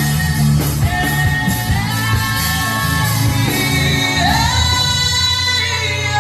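A man humming a wordless worship melody in long held notes that slide in pitch, over instrumental backing with steady low bass notes.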